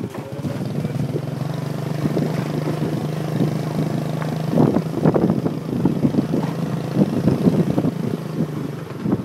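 Motorbike engine running at a steady speed while riding, with irregular buffeting thumps from about halfway.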